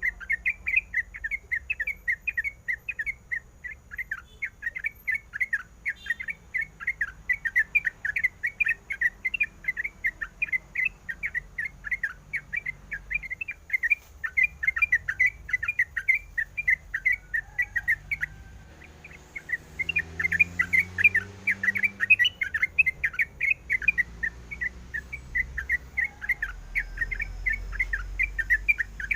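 Yellow-vented bulbul singing a fast, unbroken string of short notes, about four or five a second, with one pause of about a second about two-thirds of the way through.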